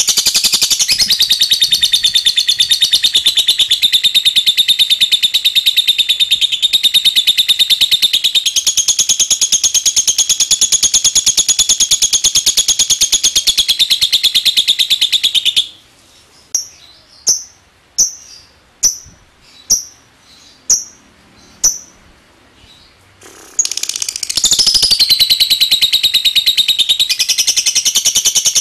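Lovebird singing a long, rapid, continuous chattering trill (the 'ngekek'). About halfway through it breaks off for several seconds of about seven single short chirps, roughly one a second, then starts the long trill again.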